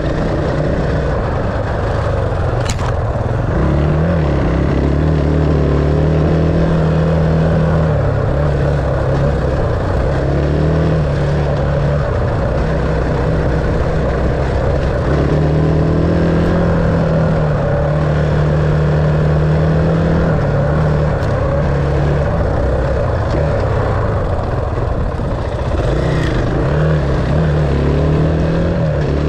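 Dirt bike engine running steadily under way, its pitch rising and easing as the throttle changes, with a sharp knock about three seconds in.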